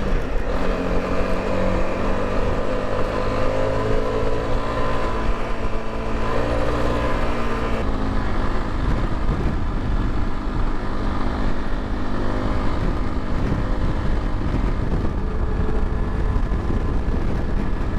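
Motorcycle engine running under way on a rough sandy track, with road and wind noise. The engine's steady tone is clear at first, and from about eight seconds in a rough rumbling noise covers most of it.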